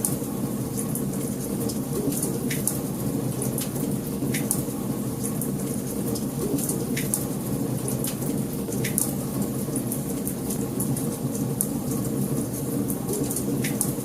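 Wood fire crackling in a fireplace: a steady low rumble of burning logs with frequent sharp pops and crackles scattered throughout.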